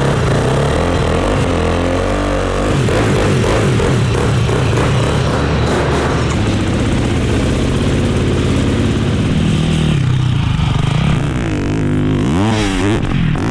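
A race ATV's engine runs loudly at speed, its pitch changing with the throttle, with quick revs up and down near the end.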